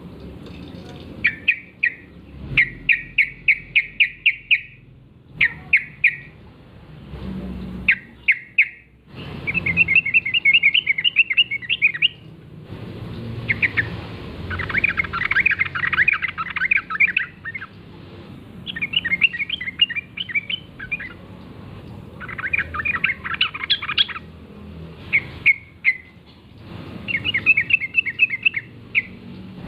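Wild yellow-vented bulbuls (trucukan) calling: loud, rapid bubbling chatter phrases, repeated in bouts of one to three seconds with short pauses between them.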